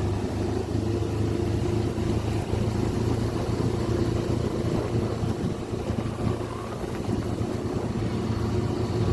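Motor vehicle engine running at a steady speed, with road noise.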